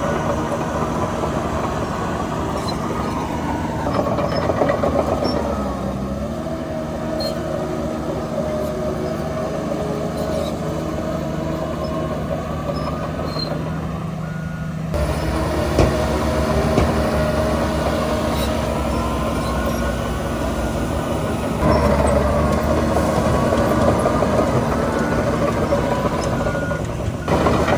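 Heavy diesel engines of earthmoving machinery running under load, their pitch rising and falling as they work. The sound changes abruptly about halfway through and twice more near the end.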